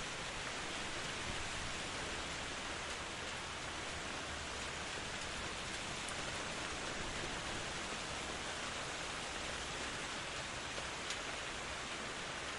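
Steady rain falling: an even hiss that holds the same level throughout, with a couple of faint drop ticks.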